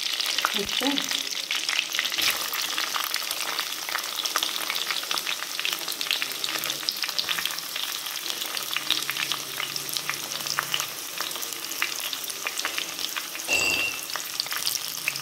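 Chopped onion with curry leaves and green chillies frying in hot oil in a clay pot: a steady crackling sizzle, with a wooden spoon stirring.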